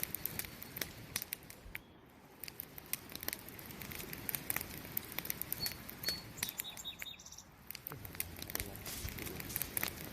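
Wood fire crackling, with many irregular sharp pops and snaps over a steady hiss. A few short, high chirping tones come through a little past the middle.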